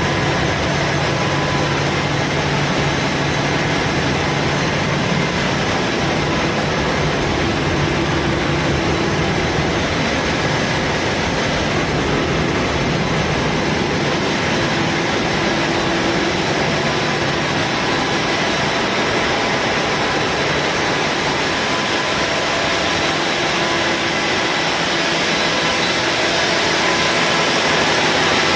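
Engine room machinery running: a loud, steady mechanical drone with a few faint steady hums in it, growing slightly louder near the end.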